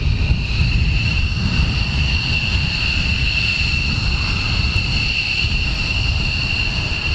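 Aircraft engine running steadily: a constant high-pitched whine over a low rumble.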